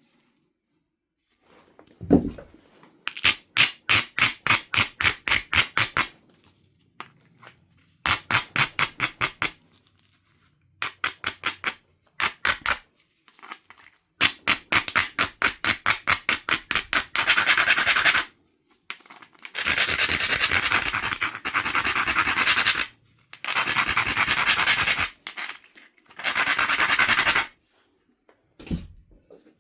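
Edge of a Knife River flint biface being ground with an abrading stone to prepare striking platforms: runs of quick back-and-forth scraping strokes, about four a second, becoming longer stretches of continuous grinding in the second half. A short knock sounds about two seconds in and again near the end.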